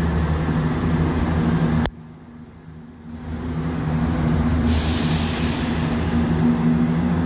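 Class 170 diesel multiple unit running into the platform, its diesel engine droning steadily. The sound cuts out briefly about two seconds in, then builds back up as the train comes closer, with a high hiss joining it.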